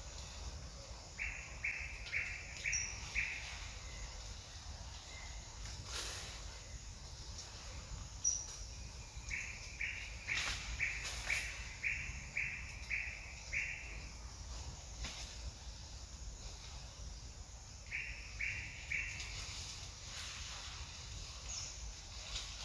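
A bird calling in runs of short, evenly spaced, same-pitched notes, about two a second: five, then ten, then three. A few higher single chirps and brief clicks sound over a steady low background noise.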